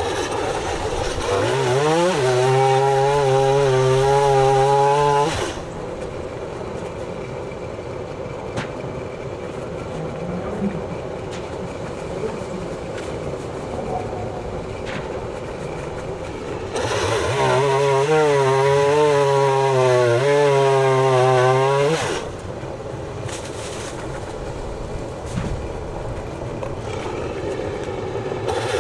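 Stihl MS 170 two-stroke chainsaw run up to full throttle twice, each burst lasting about four to five seconds, with its pitch wavering as it cuts through storm-fallen limb wood. Between the bursts it drops back to a quieter idle, and it revs up once more at the very end.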